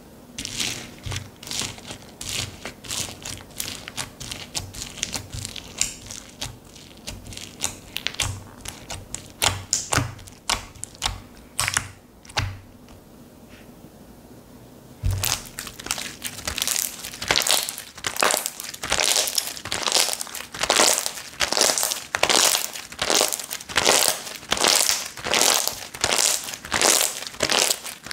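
Slime being squeezed and pressed by hand, giving sharp crackling, popping clicks with soft low thumps. After a brief lull about halfway through, the presses settle into a steady rhythm of about two a second.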